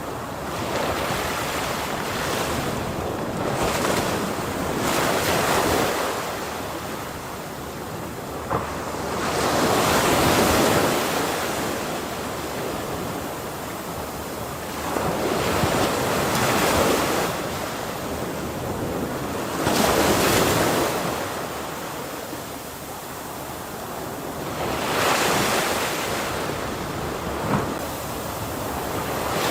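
Ocean waves breaking on a shore, the surf swelling and falling every few seconds, with a steady wash of noise between breakers.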